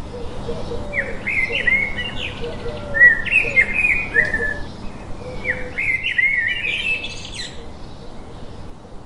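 Songbirds singing outdoors: quick bright chirping phrases in two runs, a pause in between, with a fainter, lower chirping call behind them.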